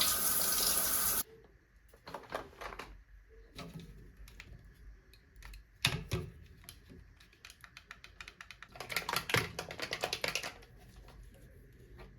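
A running water tap shut off about a second in, followed by a series of small clicks and clatters, most of them in a busy patch near the end.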